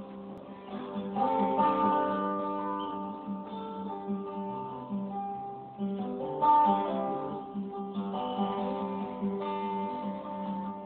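Acoustic guitar played live, strummed and picked: the instrumental opening of the song, with strong strums about a second in and again about six seconds in.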